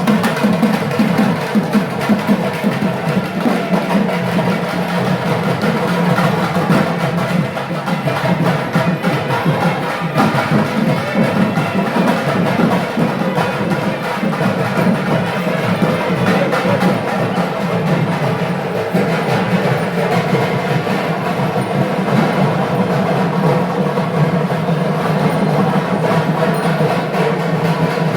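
Loud, continuous ensemble drumming of traditional ritual drums, played in rapid, dense strokes without a break.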